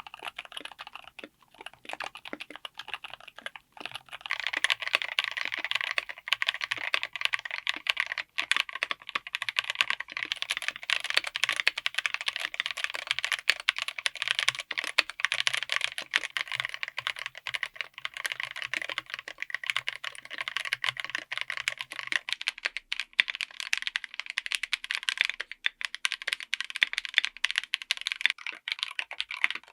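Typing on a full mechanical keyboard fitted with linear switches: a rapid, continuous patter of key presses and returns. The typing is lighter at first, then faster and louder from about four seconds in.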